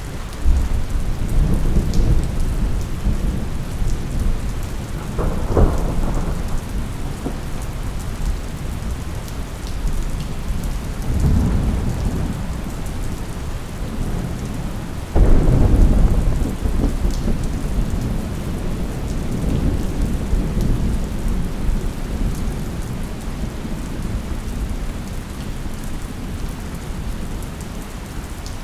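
Thunderstorm: steady heavy rain under repeated rolls of thunder. The loudest clap breaks sharply about halfway through and rumbles away over several seconds.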